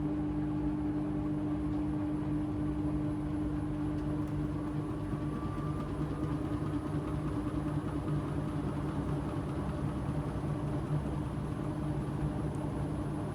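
AEG LR8FL160EX front-loading washing machine running mid-cycle: a steady motor hum with a constant low drone and a higher steady tone. A faint short rising whine comes in about four to six seconds in.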